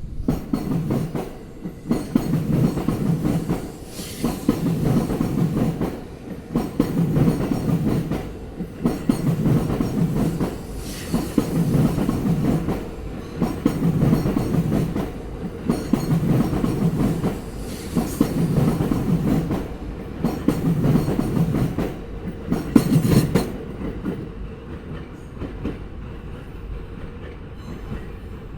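Sobu Line train running over rail joints, its wheels clattering in a repeating group about every two seconds as each car crosses the joint. The clatter stops about 23 seconds in and the train's sound fades.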